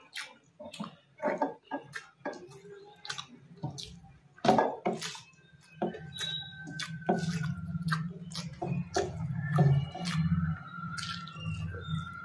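Close-up wet chewing and squishy eating sounds of a person eating rice with dal and curry, with many sharp mouth clicks. A low steady hum joins about halfway.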